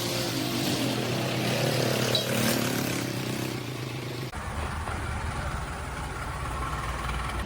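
A motor engine runs steadily under a haze of outdoor noise. About four seconds in the sound changes abruptly to a deeper engine rumble.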